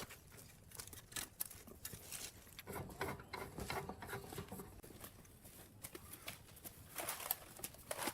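Faint, scattered light clicks and taps, denser with a faint steady tone from about three to five seconds in.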